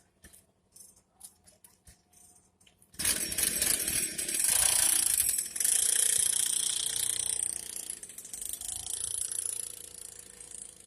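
Small 49cc petrol engine of a children's mini dirt bike, starting up suddenly about three seconds in and running with a rattle, its level rising and falling. Faint clicks come before it starts.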